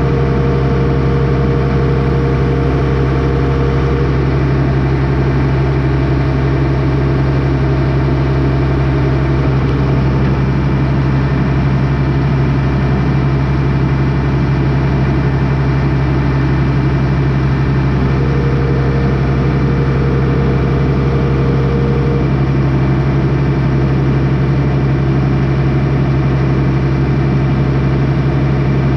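Vehicle engine idling steadily at close range, with a higher tone that comes in briefly near the start and again about two-thirds of the way through.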